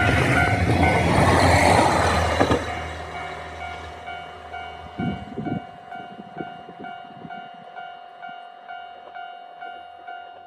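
JR KiHa 261 series diesel limited express train passing close by, loud at first, then fading away from about two and a half seconds in. Throughout, a Japanese level crossing warning bell rings in an even, steady rhythm of about two strikes a second.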